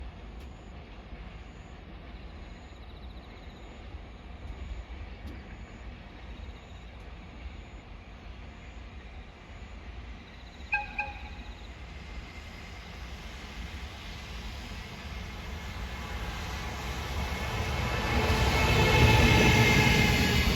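A freight train approaching on the line, its rumble and wheel noise building steadily through the second half to a loud passing peak near the end. About halfway in there are two short horn toots.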